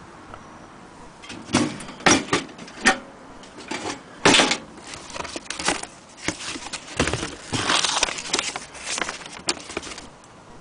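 Irregular knocks, clicks and rattles of a vintage Mary Lou toy washing machine being handled, with a denser stretch of rattling a little past the middle.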